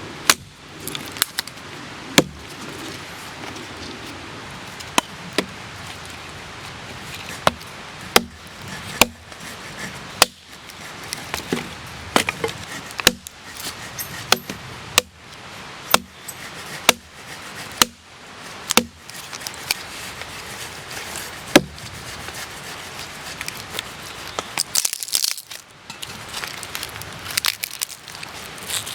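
Axe chopping firewood into kindling: a series of sharp knocks at irregular intervals, roughly one a second.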